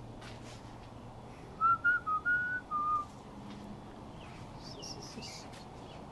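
A person whistling a short tune of about five notes lasting a second and a half, with faint high chirps a couple of seconds later.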